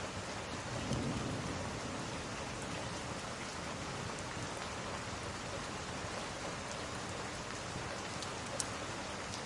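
Steady rain, as a dense even hiss, with a few sharp pops from a crackling wood fire, the clearest near the end. A brief low swell comes about a second in.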